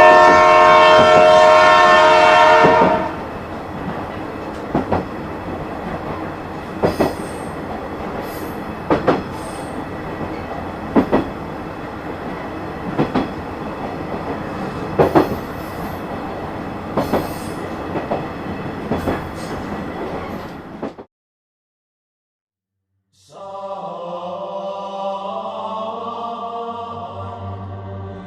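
Train horn sounding for about three seconds, then a train running with a steady rumble and a double clack about every two seconds as the wheels cross rail joints. The sound cuts off about 21 seconds in, and background music starts shortly after.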